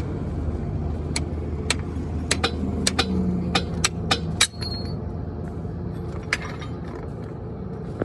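Sharp metal clinks and knocks, about a dozen spread irregularly over the first six seconds, over a steady low engine rumble.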